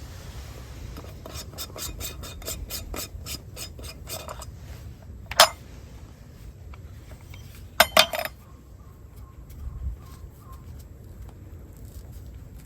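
Metal utensils clinking and scraping against camp cookware: a run of quick light clicks, one sharp ringing clink about five seconds in, and three quick clinks close together around eight seconds.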